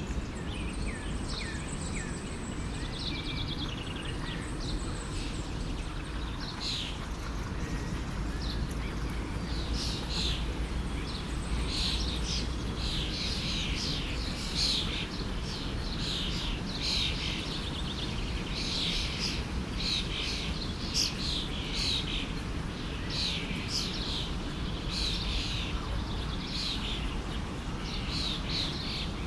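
Songbirds chirping and singing in many short, quick calls that grow busier after the first several seconds, over the steady low rush of a flowing stream.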